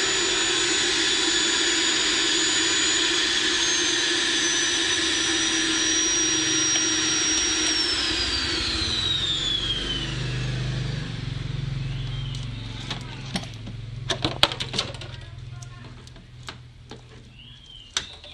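A loud, steady high whine over rushing air from a running motor. About eight seconds in it winds down, falling in pitch and fading. A low rumble remains, with several sharp knocks near the end.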